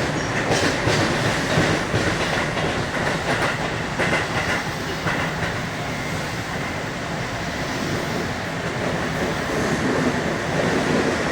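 Keihan electric commuter train running between stations, heard from inside the car: a steady rumble of wheels on rail, with a few clacks as the wheels pass over rail joints.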